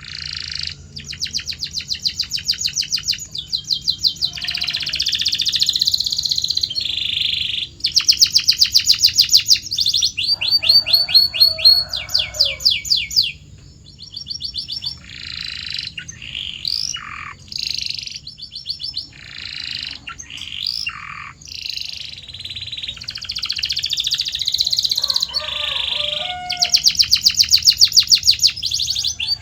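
Domestic canary singing a long, varied song: phrases of fast trills and rolls of rapidly repeated high notes, each phrase at a different speed, with a few notes sweeping down in pitch midway and short pauses between phrases.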